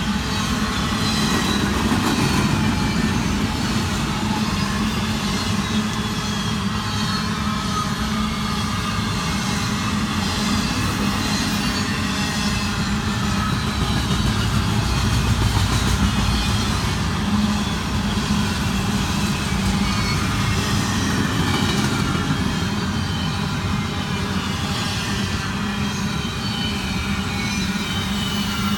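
Train rolling past, a steady loud rumble of its cars on the rails with faint high-pitched tones above it.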